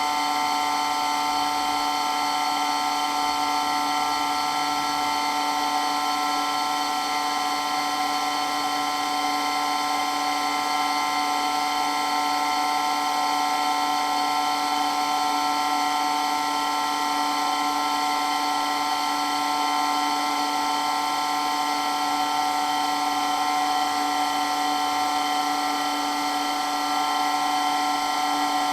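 Water pump for water blasting running steadily with an even, whining hum that holds one pitch throughout.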